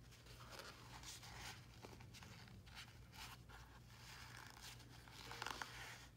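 Faint rustling and rubbing strokes of a shop rag wiping brake fluid onto a brake caliper piston, in a quick irregular series.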